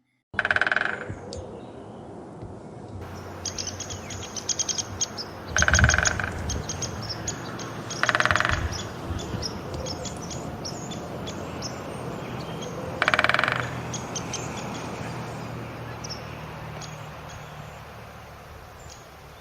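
Woodpecker drumming: four short, rapid rolls of strikes, about a second in, near six seconds, near eight seconds and near thirteen seconds. Small birds chirp in the background.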